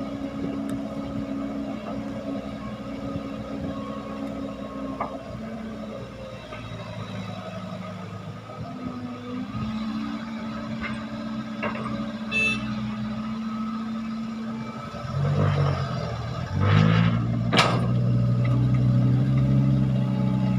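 Heavy diesel engines of an excavator and dump trucks working, changing speed now and then, with a few short knocks. About three quarters of the way through a louder engine picks up and keeps running.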